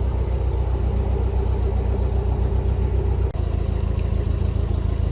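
Narrowboat's diesel engine running steadily at cruising speed, a low, even chug. It briefly dips about three seconds in.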